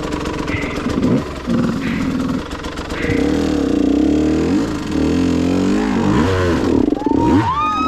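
KTM 150 two-stroke dirt bike engine revving up and down under load as it is ridden over rough trail, its pitch rising and falling repeatedly.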